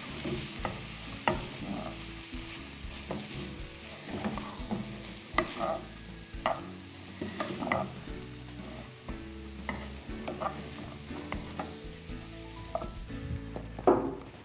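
Soaked freekeh sizzling in hot fat in a pot as it is stirred, the spoon scraping and tapping against the pot at irregular intervals.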